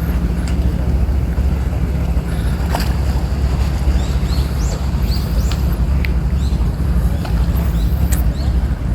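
Steady low rumble of wind on the microphone, with seaside ambience. A run of short, high chirps comes in about halfway through, along with a few clicks.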